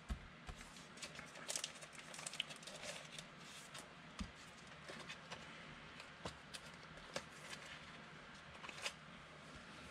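Football trading cards being handled and sorted by hand: faint, irregular rustles and small clicks.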